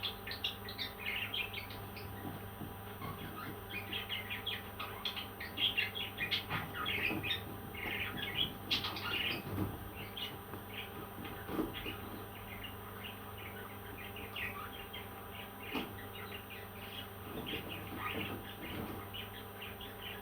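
Parrot chirping: a busy stream of short, high chirps, thicker in the middle and tapering off toward the end.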